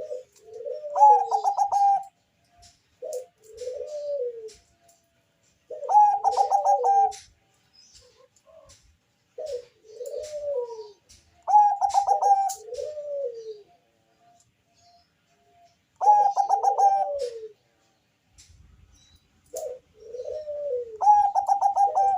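Zebra dove of the Bangkok (perkutut bangkok) type singing its cooing song. Each phrase opens with a quick stuttering run of notes and ends in two or three lower, rounded coos, and the phrase repeats about every five seconds, five times.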